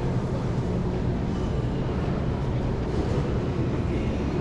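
Steady low rumble of a train or rail station, with no distinct events.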